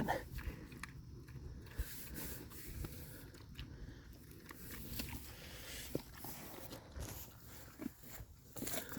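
Pregnant sow eating dry pig feed: irregular crunching and chewing with scattered small clicks.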